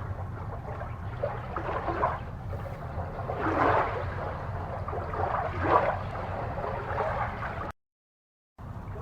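Aquarium water gurgling and bubbling in uneven swells over a steady low hum. The sound cuts out completely for just under a second near the end.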